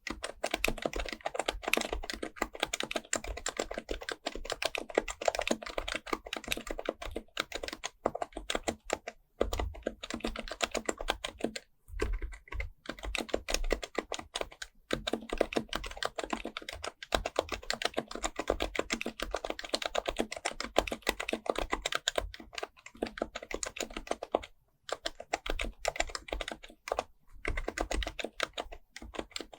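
Fast, continuous typing on a Happy Hacking Keyboard Pro Type-S with its silenced Topre keyswitches: a rapid patter of soft key presses, with brief pauses about a third of the way in, near the middle and near the end.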